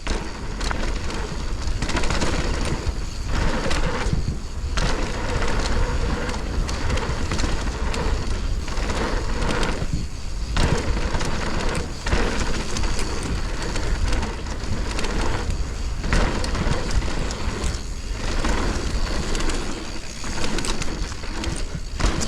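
Mountain bike rolling fast down a dirt trail: tyres crunching over dirt and the bike rattling, with wind buffeting the rider-worn camera's microphone. The noise dips briefly every couple of seconds.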